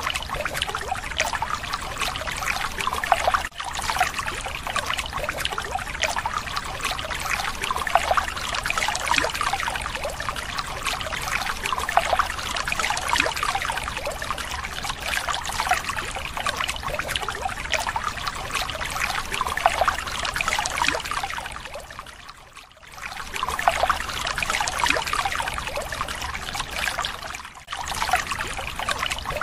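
Water pouring in a steady stream into a small tank as it fills, from a mini water pump's outlet. The flow breaks off briefly three times: once about three and a half seconds in, once for about a second past the middle, and once near the end.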